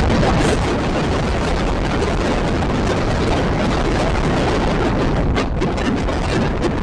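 Express passenger train running at speed: a steady rush of wheels on rails and wind.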